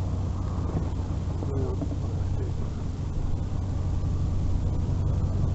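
Vehicle running steadily while driving, a low engine and road drone.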